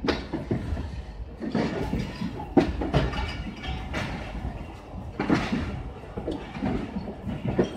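Passenger train coaches moving off slowly: a low rumble with irregular clanks and knocks from the running gear and couplings.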